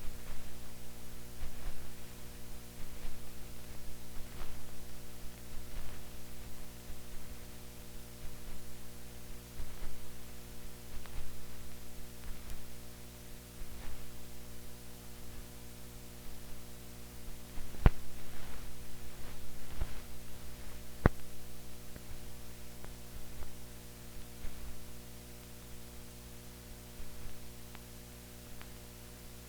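Steady electrical hum with hiss and faint crackle from an old film soundtrack carrying no recorded sound. Two sharp clicks come about two-thirds of the way through.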